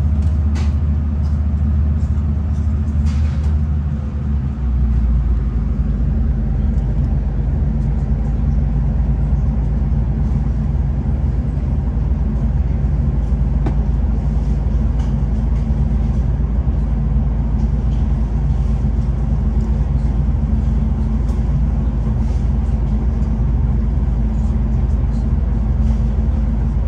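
V/Line passenger train running, heard from inside the carriage as a steady low rumble and drone. There are a few light clicks and rattles in the first few seconds, and the lowest hum shifts about four and a half seconds in.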